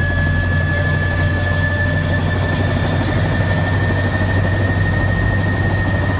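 A helicopter's turbine and rotor heard from inside the cabin: a loud, steady low drone with a high whine on top that creeps slightly upward in pitch.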